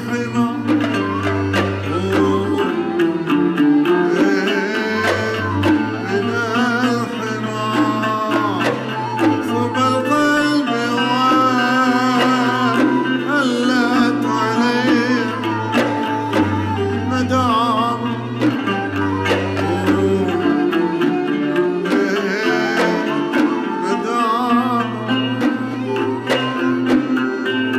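Bahraini sawt music played by a traditional ensemble: a wavering string melody over a steady, dense hand-drum rhythm.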